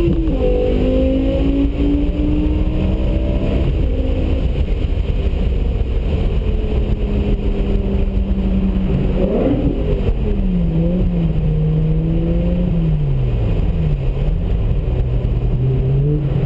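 BMW M5 E60's V10 engine heard from inside the cabin over a heavy low road and wind rumble. Its note climbs at first, holds steady at speed, then from about nine seconds in drops and rises several times as the car slows.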